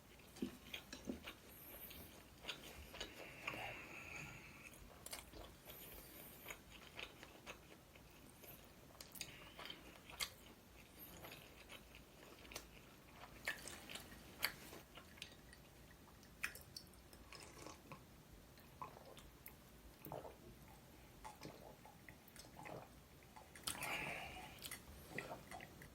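A person chewing and biting food close to the microphone, with scattered soft crunches and small wet mouth clicks.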